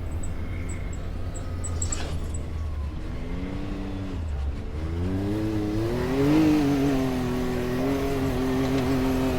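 Off-road vehicle's engine running low, then revving up from about three seconds in, its pitch climbing and then holding steady and louder at higher revs.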